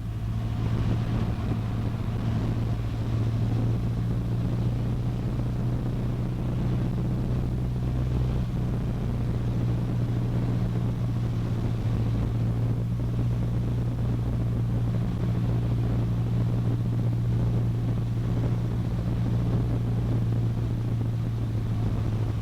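Cessna 152's four-cylinder Lycoming engine and propeller droning steadily at constant power in flight.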